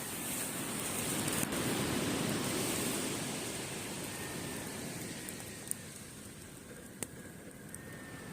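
A sea wave washing up the beach, swelling over the first couple of seconds and then slowly drawing back, with a few sharp crackles from a wood campfire.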